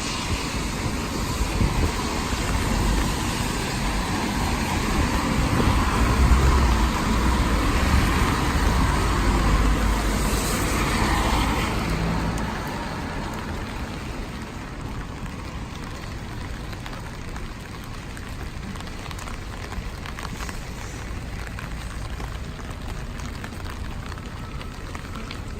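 Steady rain, with a vehicle going by on the wet road in the first half; about twelve seconds in it fades, leaving quieter, even rain.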